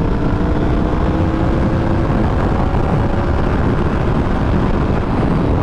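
Heavy wind noise on the microphone of a riding sport bike, with the 2015 Yamaha R1's inline-four engine running underneath through its Yoshimura exhaust, its note rising slowly for about two seconds then holding steady.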